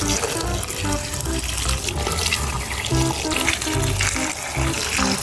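Running tap water splashing steadily, as in washing muddy toys, with background music and a stepping bass line underneath.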